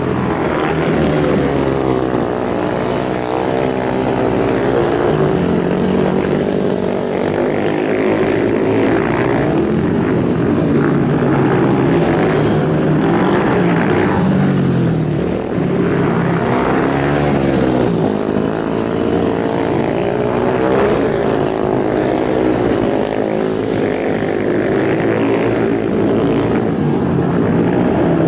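Racing motorcycle engines at high revs, several overlapping, their pitch rising and falling over and over as they accelerate and pass.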